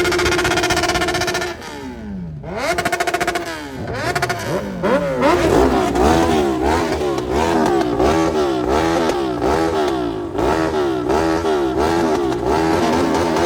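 Motorcycle engine revving: held at steady high revs, dropping away about two seconds in, then revved up and down over and over in quick throttle blips before settling near the end.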